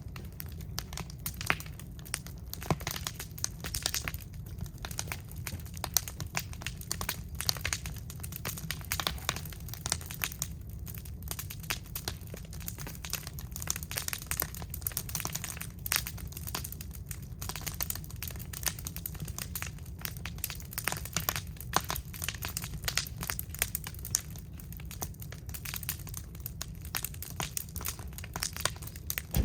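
Scrap wood burning in an incinerator, crackling with many sharp, irregular pops over a steady low rumble.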